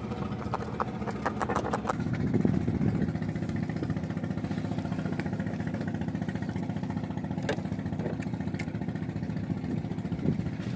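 A small fishing boat's engine running steadily with a rapid even beat, growing louder about two seconds in, with a few clicks before that.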